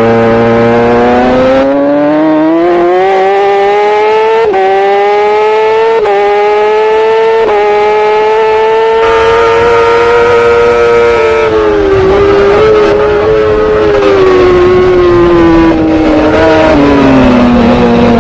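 Racing superbike engine at full race pace: the revs climb through several quick upshifts, hold high on a straight, then fall away through a string of downshifts under braking.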